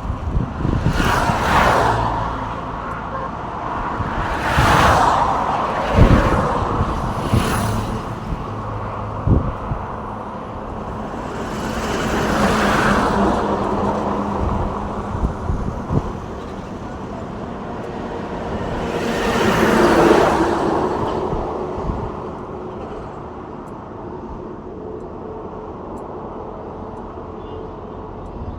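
Road traffic: about five cars and trucks pass one after another, each rising and fading, over a steady traffic hum, with a few short knocks in the first third.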